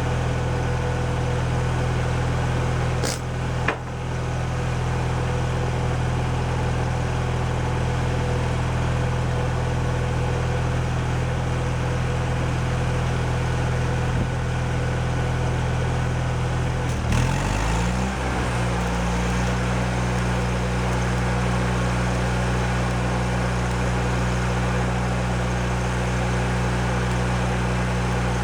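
An engine running steadily, which shifts speed with a short glide about two thirds of the way through and then settles at its new speed. Two brief clicks sound near the start.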